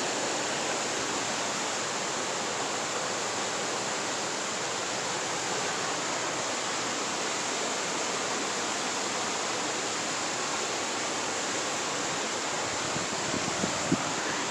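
Waterfall on a creek rushing steadily in an even, unbroken wash, with a couple of faint clicks near the end.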